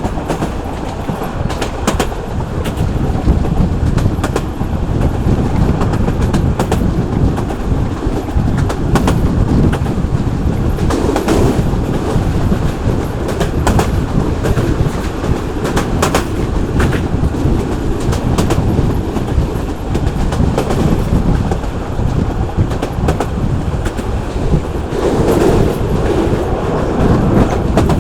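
Local passenger train running along the track: a steady rumble with the wheels clicking over rail joints at irregular intervals.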